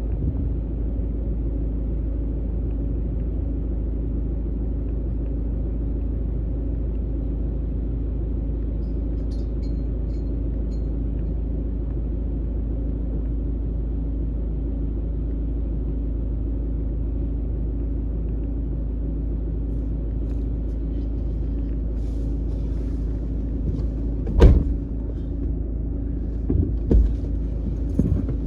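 Vehicle engine running steadily over a low rumble. A sharp knock comes about twenty-four seconds in, and a few smaller thumps follow near the end.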